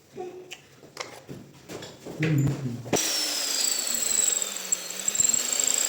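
A few light clicks and handling knocks, then about three seconds in a power drill starts and runs steadily, its motor whine dipping in pitch and coming back up.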